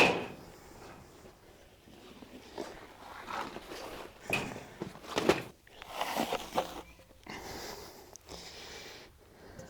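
Scattered knocks, scrapes and rubbing as the cut pieces of an old tractor tire are pulled off a steel rim, with a sharp knock at the very start.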